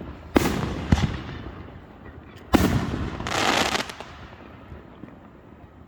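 Consumer fireworks going off: three sharp bangs in the first three seconds, then a longer burst of crackle, each echoing away.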